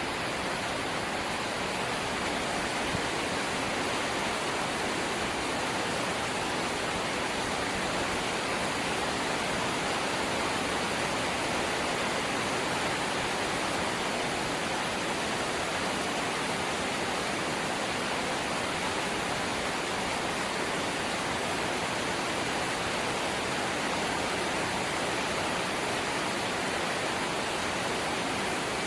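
Steady light rain: an even, unbroken hiss of falling rain.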